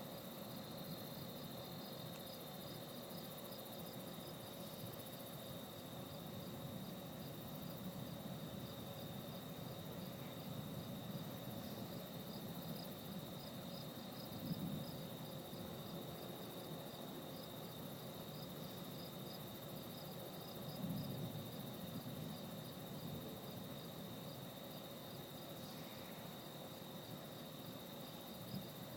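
Crickets or similar night insects calling: a steady high trill with a rapid pulsed chirping above it, faint and continuous. A faint low rumble sits under them, with a soft low bump about halfway through and another about two-thirds of the way through.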